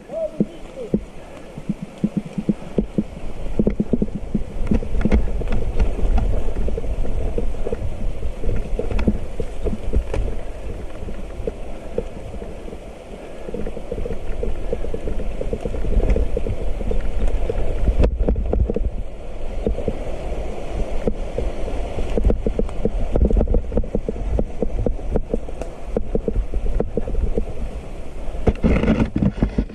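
Wind buffeting the microphone over the rumble of a mountain bike rolling on a rough trail, with frequent knocks and rattles from the bumps.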